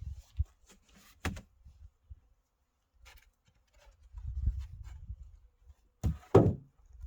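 A few knocks and thumps, with a low rumble in the middle and the loudest thump near the end.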